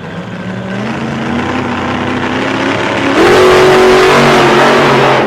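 Monster truck engine revving, its pitch climbing slowly. About three seconds in it becomes much louder and harsher.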